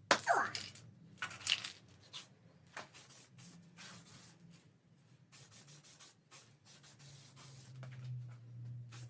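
Zinc primer being put on bare steel panel work before welding: a run of short scratchy rubbing and hissing strokes over a low steady hum.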